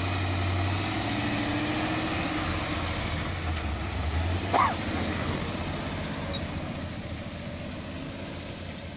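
Off-road truck engine running steadily, its pitch rising slowly over the first few seconds and then gradually fading away. A brief high squeal about four and a half seconds in.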